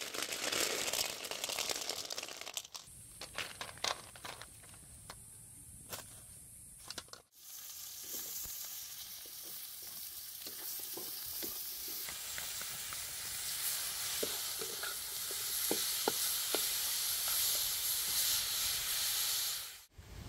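Baby corn, red chillies and shallots frying in a wok: a steady sizzle that grows louder, with scattered clicks of stirring. Hard cuts about three and seven seconds in break it, with a quieter stretch of faint clicks and a thin high hiss between them.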